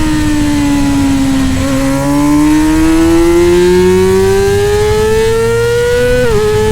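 Middleweight superbike race motorcycle engine, loud and steady. Its note falls as the bike slows, then rises steadily under acceleration for about four seconds. Near the end it drops suddenly with a quick upshift.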